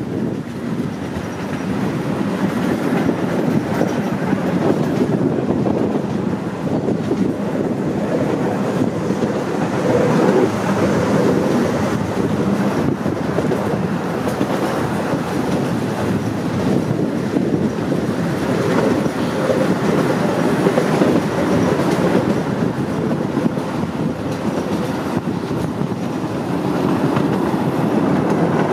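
Ride-on miniature train rolling steadily along its track, the steady noise of its wheels running on the rails heard from inside an open-sided passenger car.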